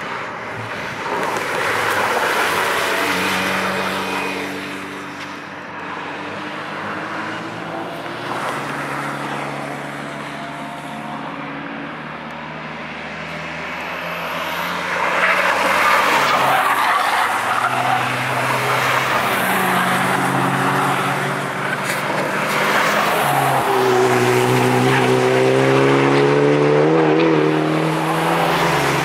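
Several cars driving hard past one after another, engines revving up and down through the gears, with tyre squeal at times.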